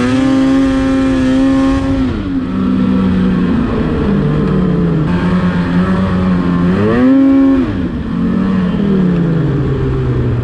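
Snowmobile engine revving under throttle: it climbs and holds high for about two seconds, drops back, then revs up and down again about seven seconds in.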